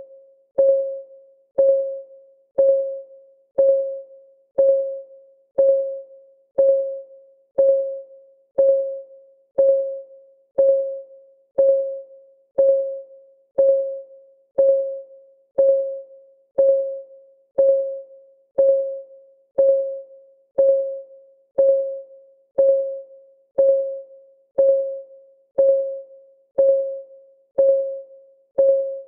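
Countdown timer's clock-ticking sound: one even tick each second, each a short pitched tock that rings briefly and dies away.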